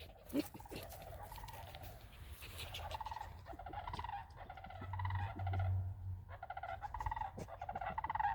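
A bird giving an odd series of rapid, rattling, pulsed calls in several bouts, louder toward the end.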